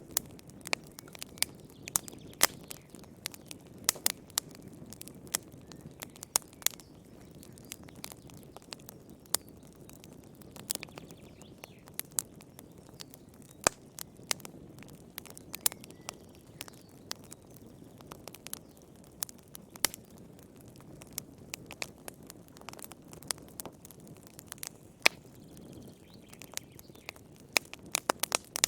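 Wood fire crackling in a fireplace: sharp, irregular pops and snaps, a few every second, over a soft steady low rush of the flames.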